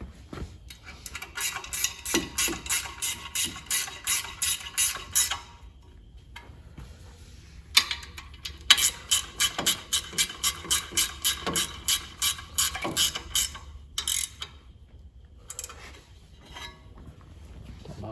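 Hand ratchet wrench clicking in two long runs of about four clicks a second, with a pause between and a few scattered clicks after, as bolts are run in at the engine mounts.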